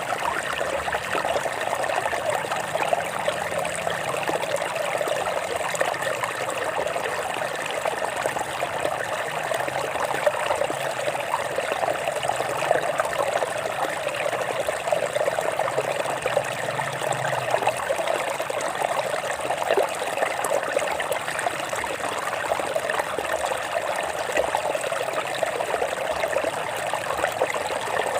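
Water trickling and splashing over rocks in a small stream, a steady babble with many small splashes.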